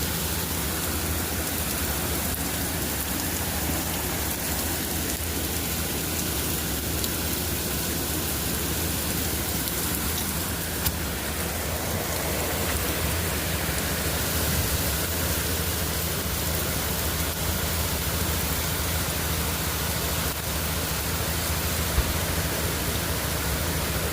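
Heavy rain pouring down steadily. Two brief knocks, one about 11 seconds in and one near the end.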